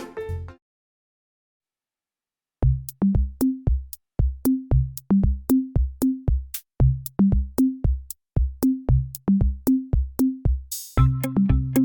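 Background music: a track ends in the first half-second, there are about two seconds of silence, then a new track starts with a drum-machine beat of kick drums and clicks. Bass and other instruments join it near the end.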